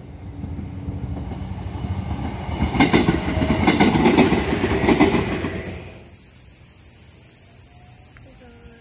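Electric commuter train passing close by on an embankment. It rumbles up to a peak about three to five seconds in, with its wheels clacking over the rail joints in groups, then quickly fades as it moves away. A steady high-pitched buzz is left behind.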